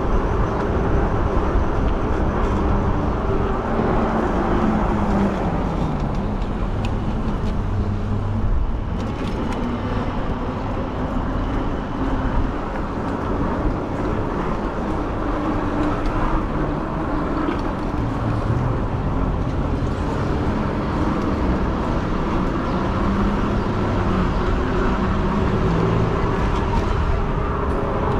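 A fat-tire e-bike in motion: steady wind rumble on the microphone, with a faint hum from the tire and motor that drifts slowly up and down in pitch.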